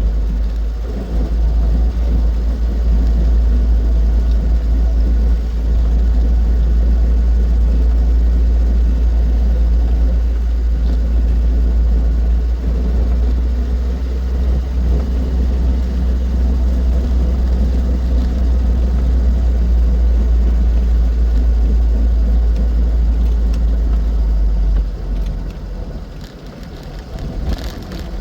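Austin 7's small four-cylinder side-valve engine and road noise while driving, heard as a heavy, steady low rumble that dies down for a few seconds near the end.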